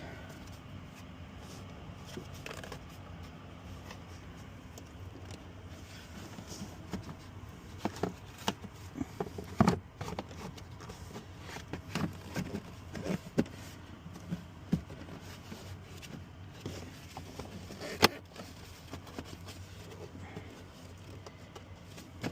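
Scattered clicks, knocks and scrapes of plastic interior trim and parts being handled and fitted back into a truck cab, over a steady low hum. The sharpest knock comes about eighteen seconds in.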